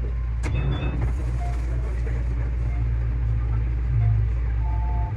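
JR Central 315 series electric train running on the line: a steady low rumble of wheels and motors, with a sharp click about half a second in and brief steady tones near the end.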